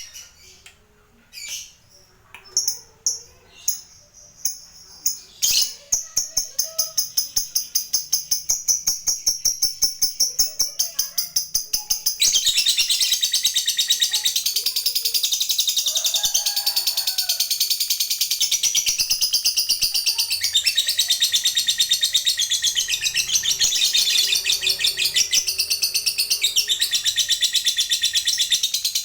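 Lovebird chirping a few times, then breaking into the long rattling 'ngekek' trill: fast repeated high notes that speed up and, about twelve seconds in, run together into a dense, continuous chatter.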